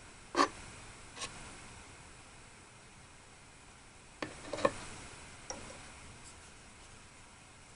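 A few small, sharp clicks and taps over a faint steady hiss: the loudest about half a second in, another a second in, and a quick cluster of three or four around four and a half seconds.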